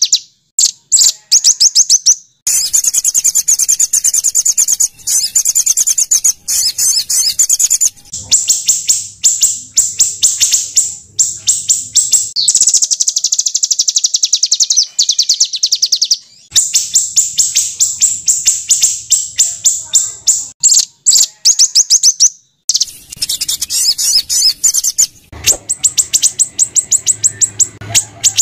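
Small songbirds giving rapid-fire trains of harsh, high chip notes, many to the second, in long runs broken by abrupt cuts. This is the rough 'shooting' song used as masteran to train white-rumped shamas.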